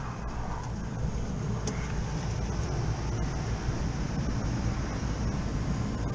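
Steady low rumble with a lighter hiss above it, getting slightly louder in the first second and then holding even.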